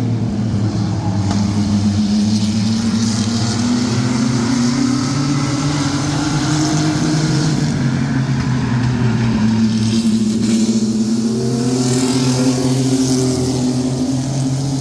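Mini truck race engines of the pack running hard around the track. Their pitch rises and falls slowly as the trucks accelerate and ease off through the laps.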